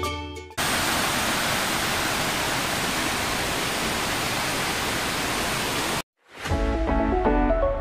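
Steady rush of a waterfall's falling water, cutting in abruptly and cutting off suddenly after about five seconds. Background music starts up near the end.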